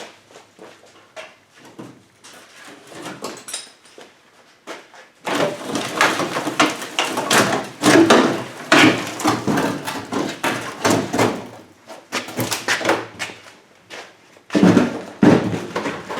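Rapid clatter of knocks and rattles from parts and tools being handled during disassembly of the buggy's front end. Light tapping at first, then a dense run of louder knocks about five seconds in, with a last loud burst near the end.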